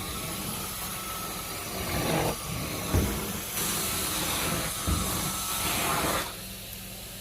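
Heavy-duty commercial vacuum over a filthy carpet: a steady motor hum with surging swells of airy suction noise as the head is stroked back and forth, and a couple of sharp thumps as it knocks against something. The noise dies back about six seconds in.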